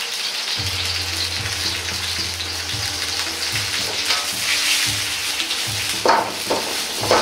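Daikon radish rounds sizzling as they fry in a carbon-steel wok over a gas burner, with a steady hiss. Twice near the end the metal ladle knocks sharply against the wok.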